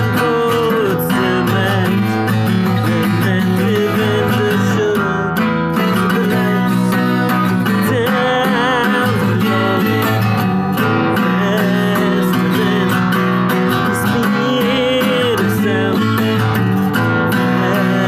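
Seagull S6 acoustic guitar playing a folk tune, with chords strummed and picked steadily.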